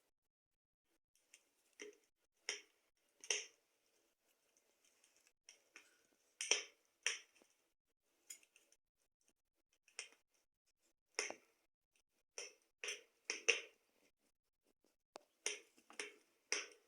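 Wood fire crackling in a fireplace: sharp, irregular pops and snaps, some in quick pairs, with short quiet gaps between them.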